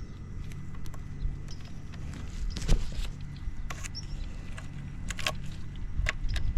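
Suzuki GS50's 49cc four-stroke single-cylinder engine idling steadily, with a few sharp clicks heard over it. The seller calls it a quiet engine with no abnormal noises.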